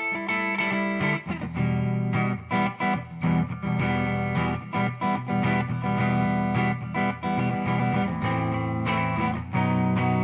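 Guitar playing an instrumental passage of a minor-key folk song, plucked notes and chords.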